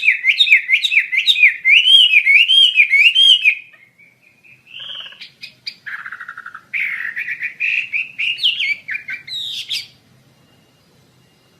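A songbird singing: a fast run of repeated up-and-down whistled notes, a short break, then a more varied phrase of chirps and trills that stops about two seconds before the end.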